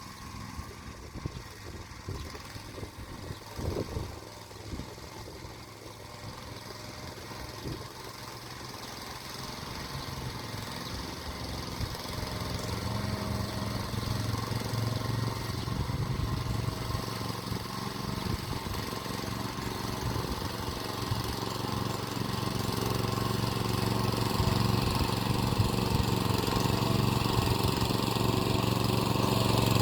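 Motor Sich walk-behind tractor's single-cylinder engine running under load while hilling, getting steadily louder through the second half as it comes closer. Scattered low thumps are heard in the first few seconds.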